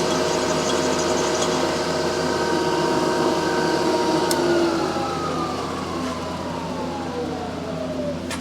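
Machine tool's spindle and electric motor running steadily after cutting out a broken cylinder stud hole, then switched off about halfway through and winding down, its whine falling in pitch.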